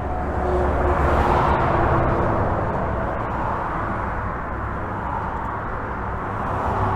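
Continuous highway traffic heard from beneath a bridge: a steady rush of tyre noise with a deep rumble, swelling as vehicles pass about a second in and again near the end.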